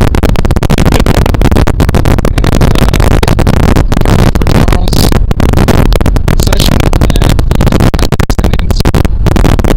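Blizzard wind blasting straight onto the microphone, a loud, distorted, overloaded roar broken by brief dropouts.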